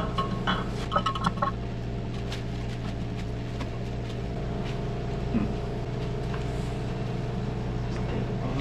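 Steady low mechanical hum, with a few sharp, ringing metallic clinks in the first second and a half.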